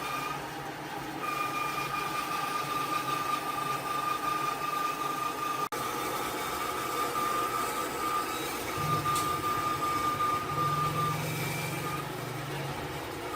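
A power tool running steadily with a high, even whine. There is a brief break a little before the middle, and a lower hum joins in about two-thirds of the way through.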